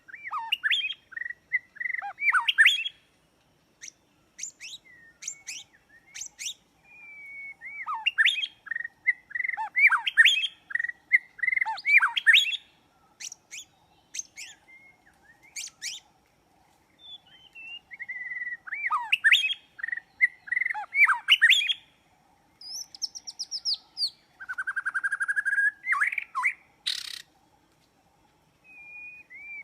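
White-rumped shama (murai batu) singing: loud, rich whistled song phrases in three bursts about nine seconds apart, with short chirps between. A buzzy, rattling phrase and a brief harsh note come near the end.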